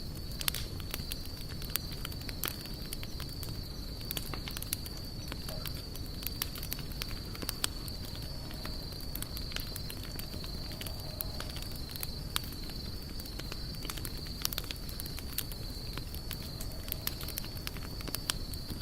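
Wood campfire crackling: irregular sharp pops and snaps over a low steady rumble of burning, with a steady high-pitched whine throughout.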